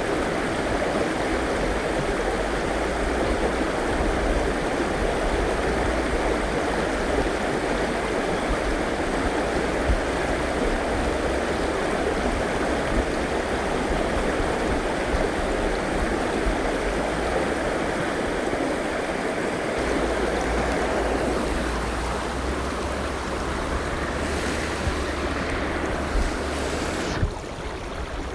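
River water flowing, a steady rushing sound. About a second before the end it drops suddenly and becomes quieter and thinner.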